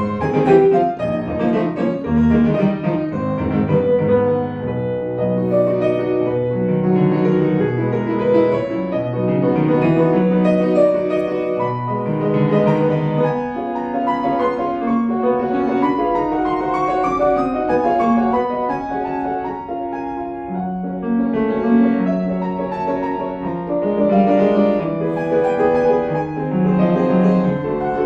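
Solo acoustic piano playing a classical piece with full chords and moving lines, continuously and at a strong level.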